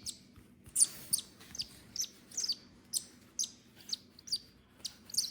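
Hand-fed nestling giving a steady string of short, high begging chirps, about two or three a second, while it is being fed.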